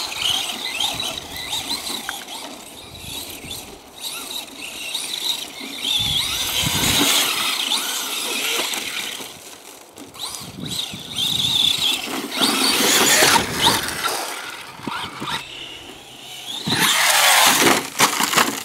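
Traxxas Slash 4x4 RC short-course truck's brushless motor and drivetrain whining, rising and falling in pitch in repeated surges as the truck accelerates and slows on grass.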